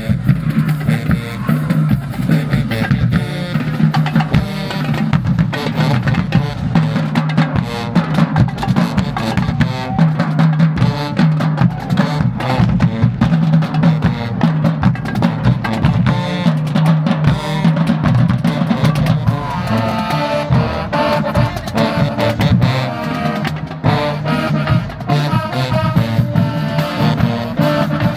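Marching band playing, with a heavy drumline of snares and bass drums driving under held low brass notes; the horns grow busier about two-thirds of the way through.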